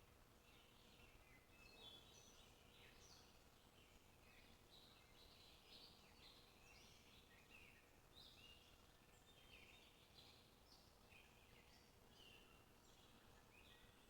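Faint chirping and twittering of many small birds, short calls overlapping continuously, over a faint steady hum.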